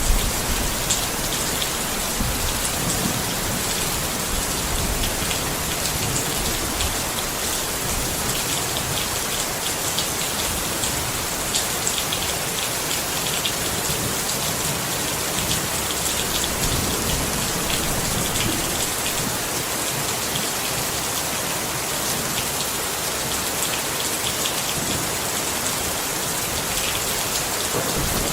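Rain falling steadily on a tent, an even hiss of raindrops. A low rumble fades away over the first few seconds.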